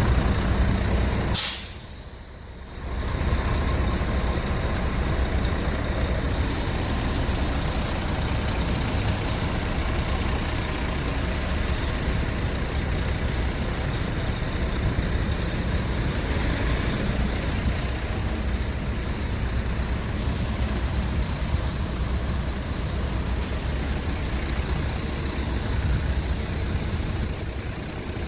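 Scania R tractor unit's diesel engine running steadily, with a short, sharp hiss of released air from the air brake system about a second and a half in.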